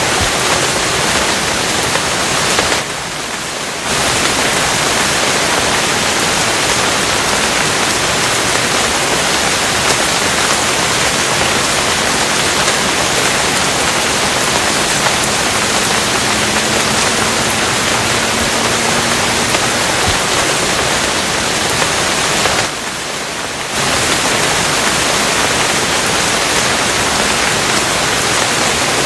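Steady heavy rain, a dense even hiss with no separate drops standing out, dipping briefly in level twice.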